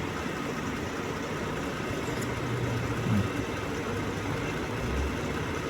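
Jeep Grand Cherokee idling steadily with the air conditioning running, during a refrigerant recharge of its AC system.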